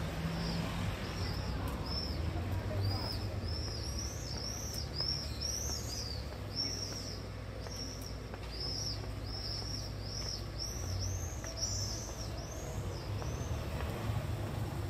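Small birds chirping in a quick run of short, high chirps, about two to three a second, over a low steady hum.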